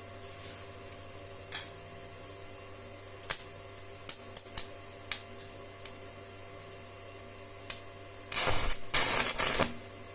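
Scattered sharp clicks and knocks, about nine of them, then a dense rattling burst lasting about a second near the end, over a steady hum.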